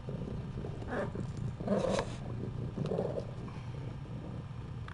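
Domestic cat purring steadily, with a few short cat calls about one, two and three seconds in.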